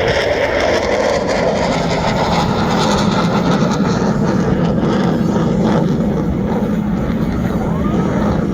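F-16 Fighting Falcon fighter jet flying past in a knife-edge pass, its engine noise loud and continuous. The sound deepens about halfway through as the jet passes by.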